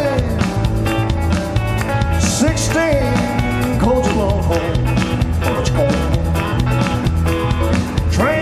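Live rock-and-roll band playing at full volume, with a driving, repeating bass line, drums and pitched instrument lines.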